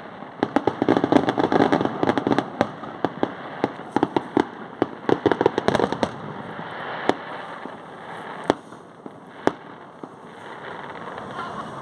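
Fireworks going off: a rapid string of sharp cracks and pops for about six seconds, then a few single bangs spaced out and thinning away.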